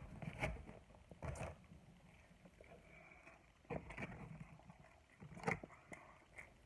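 A person eating, with faint chewing and a few short crunching and smacking sounds scattered through.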